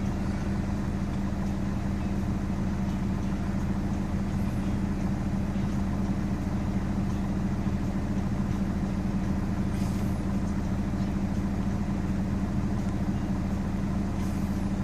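Car engine idling steadily, a low even drone heard from inside the cabin.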